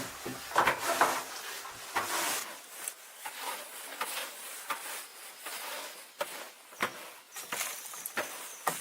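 An irregular series of short crunches and knocks, about one or two a second, over a faint hiss.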